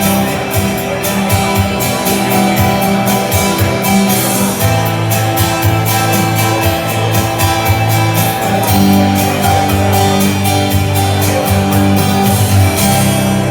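Rock music: a band playing an instrumental guitar passage over a steady beat.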